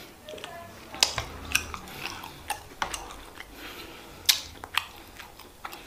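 Close-miked mouth sounds of a person chewing and swallowing: a series of sharp wet clicks and smacks, loudest about a second in and again past four seconds in.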